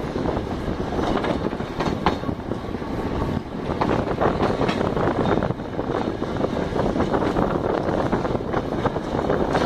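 Passenger train running along the track, heard at an open carriage window: a steady rattle and clatter of wheels and carriage, with a sharper knock about two seconds in.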